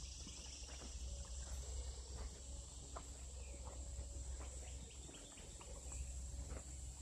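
Steady high chorus of insects such as crickets, with scattered light clicks and crackles and a steady low rumble underneath.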